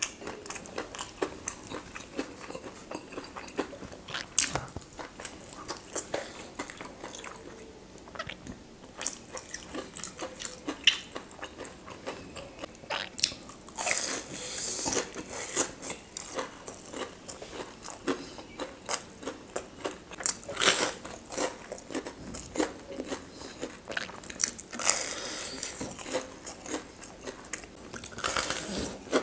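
Close-miked eating: biting into and chewing crunchy food, heard as a run of many short, sharp crunches and clicks, with a few longer crackly stretches.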